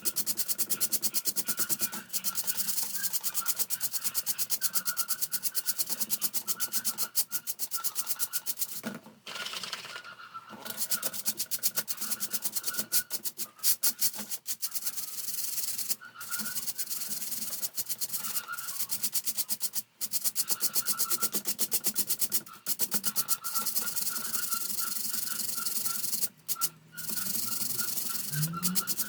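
Fast, continuous scrubbing and rubbing strokes on the parts of an electric fan as it is cleaned, a dense rasping with a few short breaks, one about nine seconds in.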